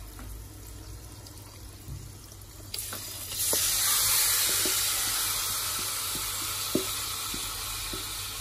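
Seasoned raw chicken pieces poured into a pot of hot oil and burnt curry powder: a loud sizzle starts about three seconds in and slowly eases off. Scattered light knocks sound through the sizzle.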